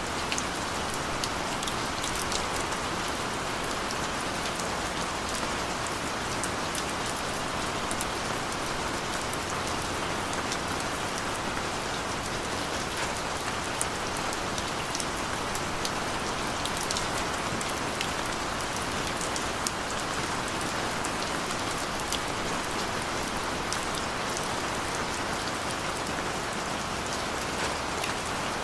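Steady rain falling, a constant hiss of rainfall with scattered sharp drop ticks.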